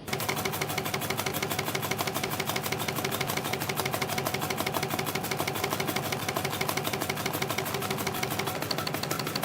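CNC compression-spring coiling machine (YHM CF-310) running, coiling 0.6 mm wire into compression springs: a fast, even, machine-gun-like run of clicks over a steady mechanical whine. It starts abruptly right at the beginning.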